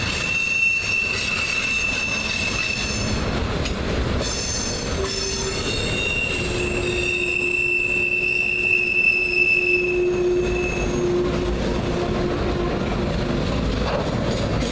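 Freight cars of a manifest train rolling past with a steady rumble, their wheels squealing in long steady tones: a high squeal for the first few seconds, then another from about six to eleven seconds with a lower squeal alongside it.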